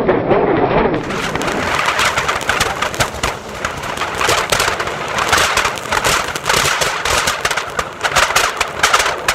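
Anar fountain firecrackers burning, a steady hissing spray thick with rapid crackles. About a second in the sound changes abruptly from a duller, muffled rush to the bright, crackling hiss.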